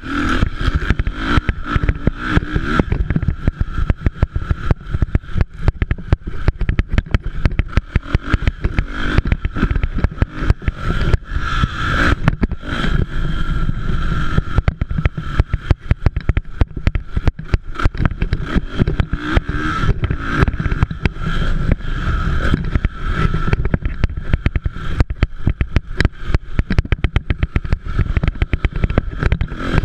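Motocross motorcycles running on a race track, their engine note swelling and fading, over a heavy low rumble and crackle.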